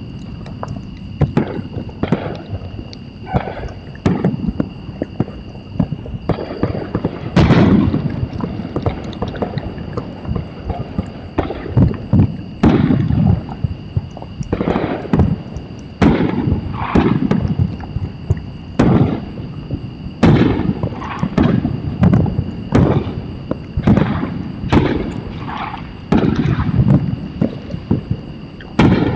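Fireworks going off in an irregular barrage, sharp bangs and deeper booms that each trail off in an echoing rumble, several every few seconds. Two steady high tones sound underneath.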